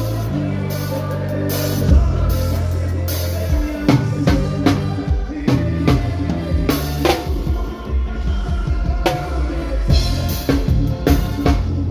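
Live band playing an instrumental passage with no vocals: drum kit hits, kick and snare, over a bass line of held low notes.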